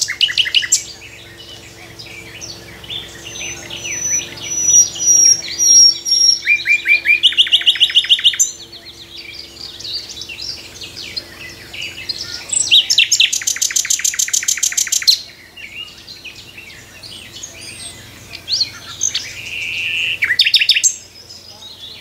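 Common nightingale singing in separate phrases: a run of pure drawn-out whistles, then fast rattling trills of rapidly repeated notes, with short pauses between phrases. The longest and loudest trill comes about halfway through.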